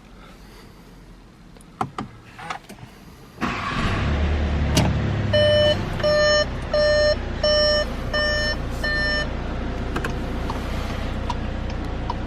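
A few clicks. Then, about a third of the way in, the 2021 Volkswagen Passat's engine starts and settles into a steady idle. Soon after the start, a dashboard warning chime beeps six times at an even pace over about four seconds.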